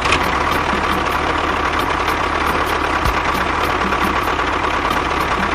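A motor running at a steady speed, with a light regular ticking about four to five times a second.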